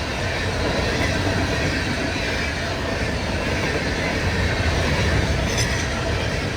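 Empty Herzog ballast cars of a freight train rolling past, a steady rumble and rattle of steel wheels on rail. A brief high squeal comes near the end.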